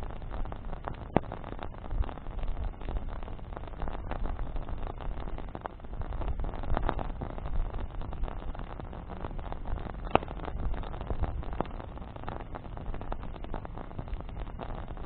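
Campfire of burning branches crackling with dense, irregular small cracks, and two sharper pops about a second in and about ten seconds in, over a low rumble.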